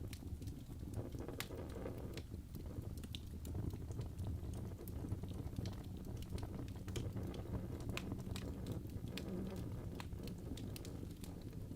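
Birch logs burning in a fireplace: a steady low rumble of flame with frequent sharp crackles and pops scattered irregularly throughout.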